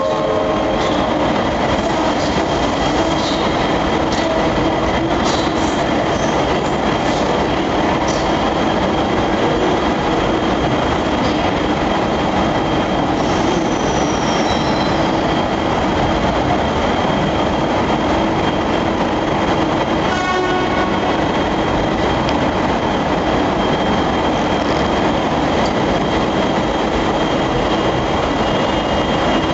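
Trains at a station platform: a steady, loud mechanical hum with several held tones, like locomotives running. A brief high squeal comes near the middle, and a quick run of clicks about two-thirds through.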